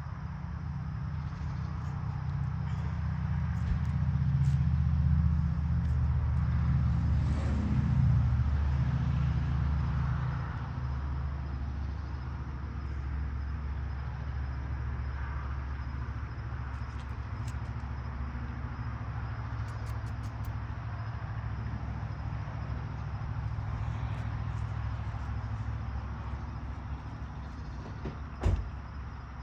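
An engine running with a steady low hum, louder for several seconds early on, with a single knock near the end.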